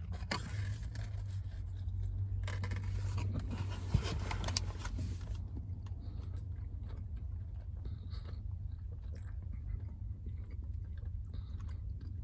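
A person chewing a bite of a grilled chicken sandwich. For the first five seconds or so there is rustling with scattered clicks, and a steady low hum runs underneath.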